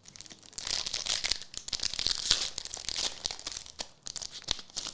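Foil trading-card pack wrapper crinkling and tearing, an irregular run of crackles with sharp clicks that fades out near the end.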